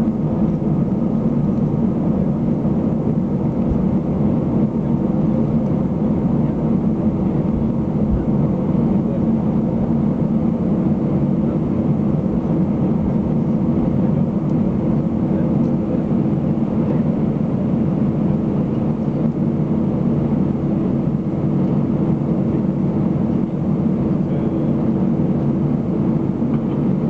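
Airbus A320 cabin noise after landing: a steady engine hum with a few held tones over a low rumble, heard from inside the passenger cabin.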